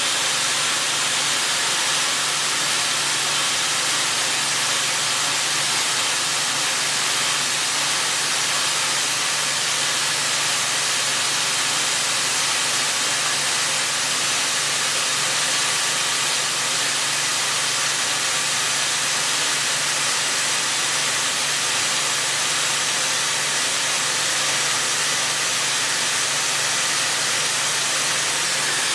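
Milling machine running steadily: an even hiss with a low hum under it, unchanging throughout.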